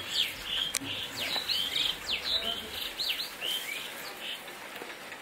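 Small birds chirping in a quick run of short, high sliding notes, which die away after about three and a half seconds.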